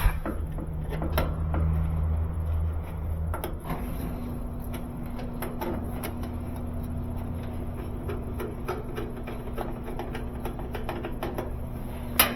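Scattered light clicks and knocks of hands and tools working on a GE dryer's sheet-metal cabinet while its screws are taken out, over a steady background hum, with one sharper knock near the end.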